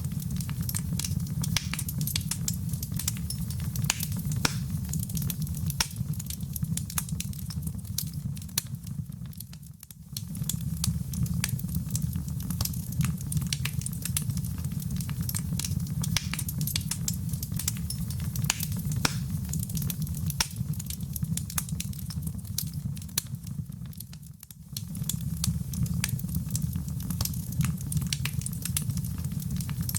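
Wood fire crackling: a dense run of sharp pops and snaps over a steady low rumble of burning. The sound dips briefly about ten seconds in and again about twenty-five seconds in, then carries on as before.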